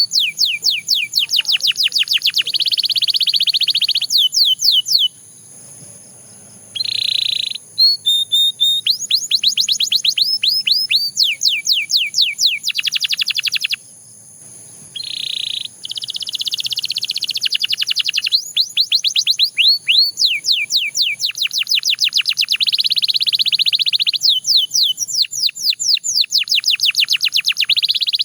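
Canary singing a continuous song: rapid trains of falling whistled notes, many per second, alternating with buzzy rolled trills, with two short breaks about five and fourteen seconds in.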